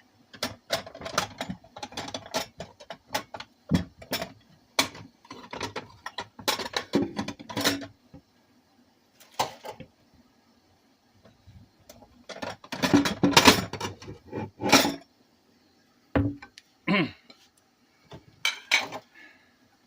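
Cookware and kitchen utensils clattering and knocking in scattered bursts with quiet gaps between them, the loudest run a little past halfway.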